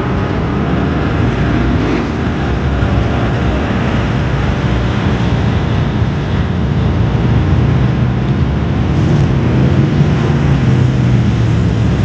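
BriSCA F1 stock cars' V8 engines running on the track, a continuous loud engine drone that grows a little louder and steadier in pitch during the second half.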